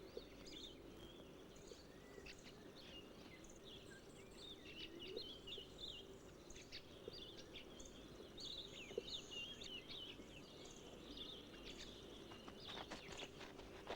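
Faint wild birds chirping and calling in short scattered phrases over a steady low drone of insects or ambience. A rapid run of clicks comes near the end.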